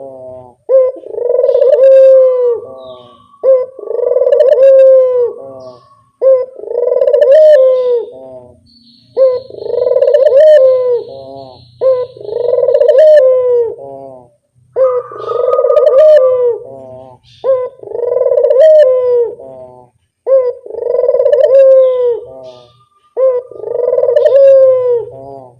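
Barbary dove (burung puter) cooing repeatedly, one loud cooing phrase about every two and a half seconds, with a faint low hum between phrases.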